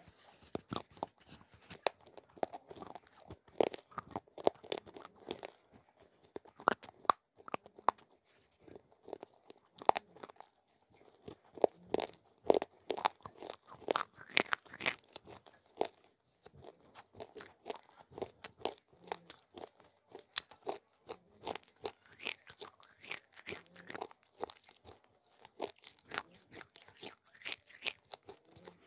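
Close-miked crunching and chewing of baked clay (mitti) and slate pencil pieces: many sharp, irregular crunches, with brief softer gaps between mouthfuls.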